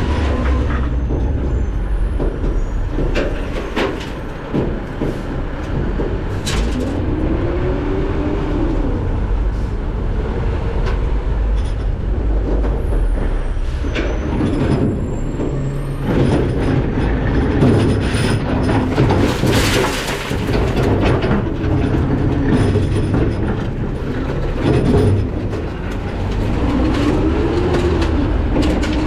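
McNeilus ZR rear-loader garbage truck running, heard from the hopper, with rattling and clanking of metal and a whine that rises and falls several times.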